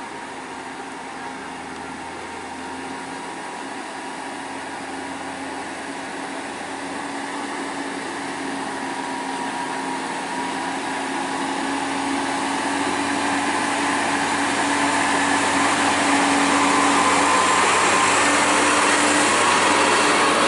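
Heavy truck engine running under load, growing steadily louder for most of the time and then holding. Its tone rises slightly near the end.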